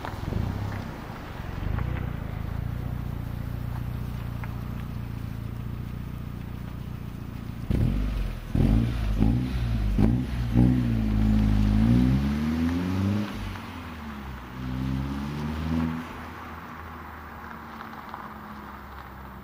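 1999 Audi A4 1.8T quattro's turbocharged four-cylinder engine running steadily, then revving hard with its pitch rising and falling several times from about eight seconds in, again briefly a little later, before settling lower and quieter.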